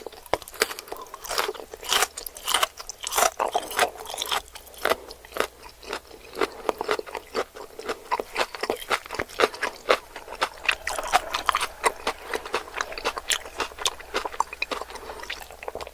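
Close-miked chewing and biting of sushi and sashimi: wet mouth clicks and smacks, several a second.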